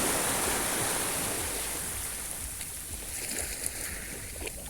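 Sea waves washing onto the shore: a steady rush of surf, loudest at the start and easing off as the water draws back.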